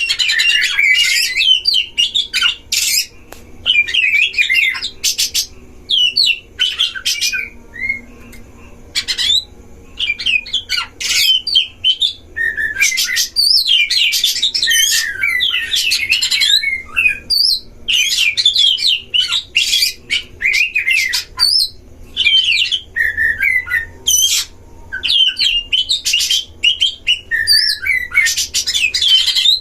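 Oriental magpie-robins (kacer) singing against each other in a duel: repeated bursts of rapid, varied whistles mixed with harsh scratchy notes, with short pauses between phrases.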